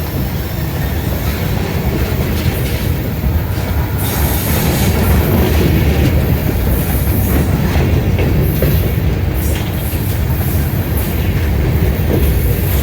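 Freight train passing at close range: a steady, loud rumble of steel wheels on the rail with irregular clicking and clattering of the cars.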